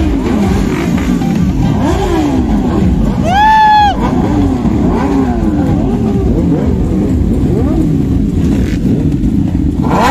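Several motorcycle engines revving again and again, their pitch rising and falling in quick blips, with one short, loud horn blast about three seconds in.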